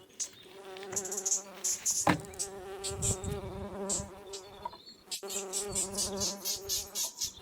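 Swarm of insects buzzing around infested beehive frames in a steady, slightly wavering drone, with rapid high crackling over it and a sharp click about two seconds in.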